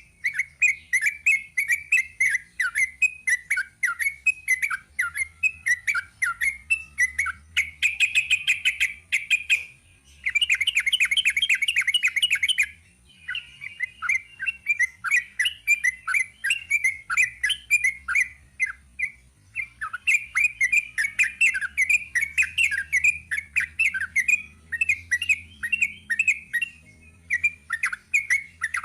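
Yellow-vented bulbul (trucukan) singing its long, rapid-fire 'ropel' song: fast strings of bubbling, chattering notes repeated almost without pause, with a couple of brief gaps.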